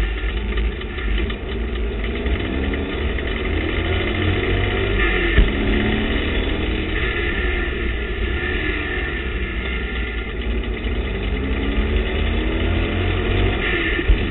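TVR Tuscan race car engine heard from inside the car under racing load, its pitch climbing through the gears and dropping back at each change, over steady wind and road noise. A sharp knock about five seconds in and another near the end.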